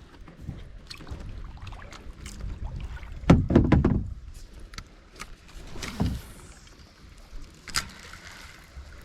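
Kayak on the water: scattered knocks and clicks against the hull, the loudest a heavy thump about three seconds in and another a few seconds later, over a low rumble of wind on the microphone.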